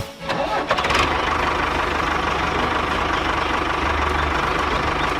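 A sharp click, then a small engine starting up and running steadily from about a second in, with an even low hum.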